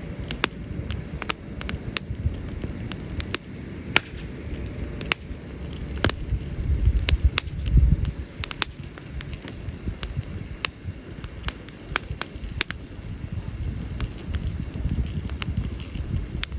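Campfire of burning wood crackling, with sharp irregular pops scattered throughout over a low rumble that swells about halfway through.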